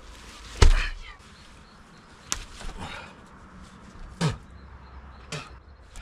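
Heavy stones knocking together as they are shifted into place: one loud, deep thud about half a second in, then four lighter knocks spread through the rest.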